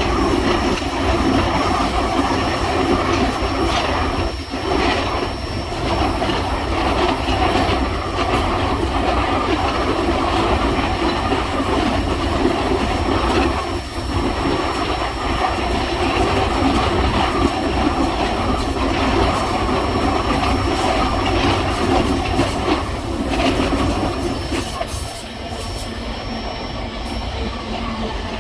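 Moving passenger train heard from its last car: steady rumble and rattle of wheels on the track, with some squeal from the wheels.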